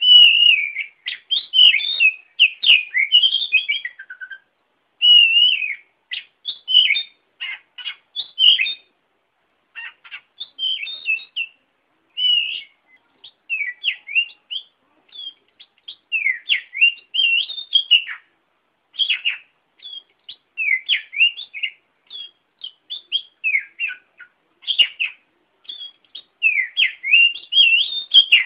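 A songbird singing a varied, rapid song of short chirps and whistled notes in bursts with brief pauses, played as a training recording for pet songbirds.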